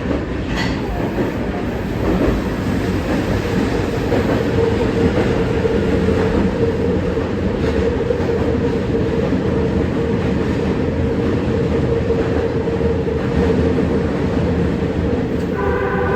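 Kita-Osaka Kyuko 9000 series electric train running at steady speed: a continuous rumble of wheels on rail with a steady motor hum.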